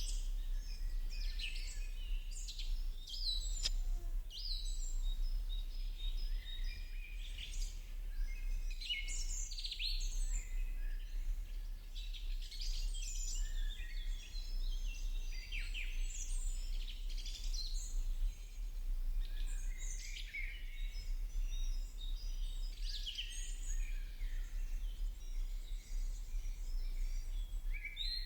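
Many small birds chirping and singing at once in a continuous chorus of short, overlapping high calls and trills, over a steady low hum.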